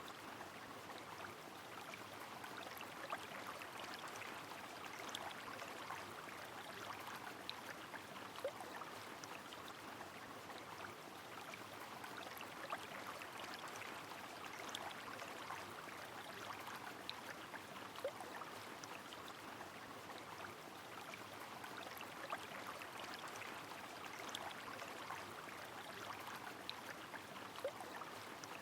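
Rain falling over a flowing river: a steady rush of water with many small drop ticks scattered through it and a few sharper ones.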